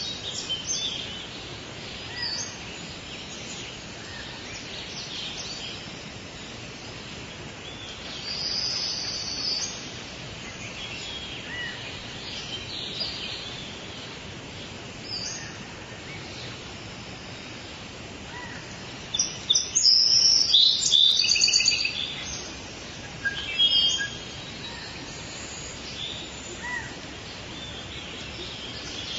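Several wild birds chirping and calling over steady background noise of forest ambience, with a louder burst of rapid chirping about two-thirds of the way through.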